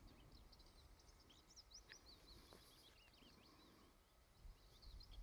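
Faint birdsong, a busy run of quick high chirps that sweep up and down, over a faint low rumble.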